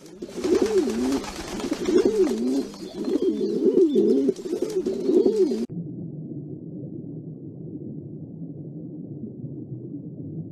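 Feral pigeons cooing, about five coos each rising and falling in pitch, over the rustle and flapping of wings in the flock. The sound cuts off suddenly about halfway through and gives way to a steady low rumble.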